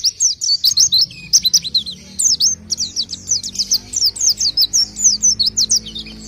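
Pelci songbird singing a fast, chattering song of high notes that sweep downward, several to the second, with little pause.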